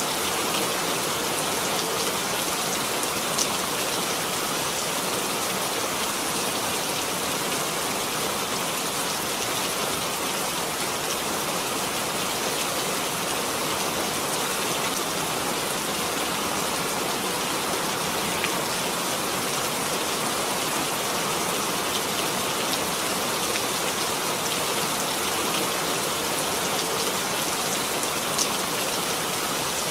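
Steady rain falling, an even hiss of drops with a few single louder drop ticks now and then.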